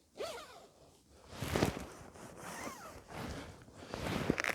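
Rustling and handling of gear, with zip-like scraping, short squeaks and a knock about a second and a half in.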